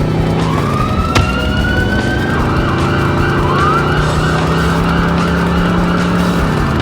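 Police siren rising in pitch, then warbling quickly, over the steady hum of a vehicle engine. A sharp click sounds about a second in.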